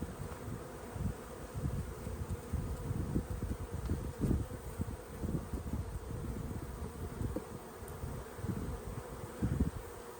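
Many honey bees buzzing around an opened hive during a frame inspection: a dense, fluttering hum.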